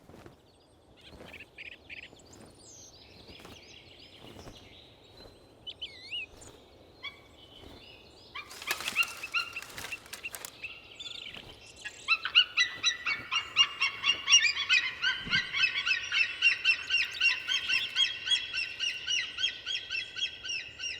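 White-tailed eagles calling: after a few faint chirps, a high, yelping call starts about eight seconds in. From about twelve seconds it becomes a fast, loud series of about three calls a second.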